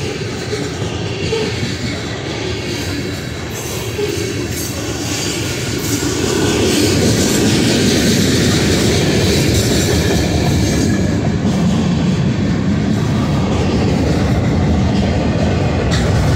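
Freight cars of a Union Pacific manifest train rolling past close by, steel wheels running steadily on the rails; the noise gets louder about six seconds in and stays up.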